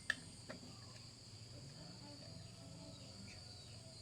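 Faint outdoor background with a steady high insect hum, and two small sharp clicks within the first second.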